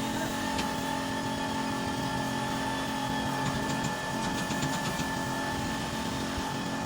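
An engine running at a steady speed, with a steady whine over its noise.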